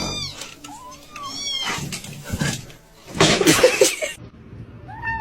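A domestic cat meowing several times in short, arching calls, with a noisy stretch in the middle.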